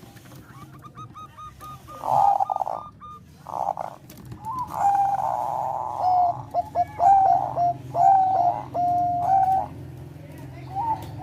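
Zebra dove cooing: runs of short, quick staccato notes, faint at first and loud from about two seconds in until near the end.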